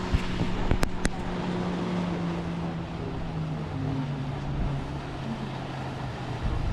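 Small boat's outboard motor running steadily over wind and water noise, its pitch sagging slightly near the middle, with two sharp clicks about a second in.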